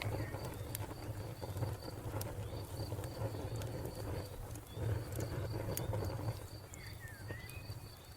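Wood fire crackling, with sharp scattered pops over a low steady rumble, and a cricket chirping in a steady high pulse throughout. A bird gives a few short chirps about seven seconds in.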